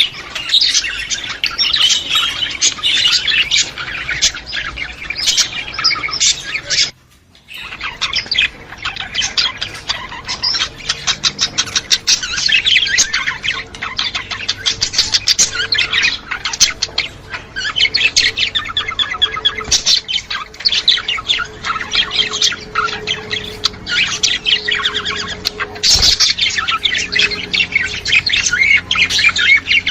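A flock of budgerigars chattering: dense, rapid chirps, warbles and squawks overlapping without pause. There is a brief break of about half a second around seven seconds in.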